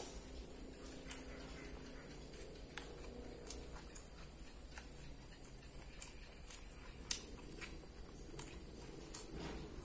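A person chewing crispy fried tofu stuffed with meatball close to the microphone: irregular small crunches and wet mouth clicks, the sharpest click about seven seconds in, over a steady hiss.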